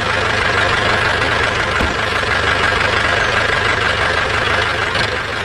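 Engine running steadily: a low rumble with a faint, steady whine on top.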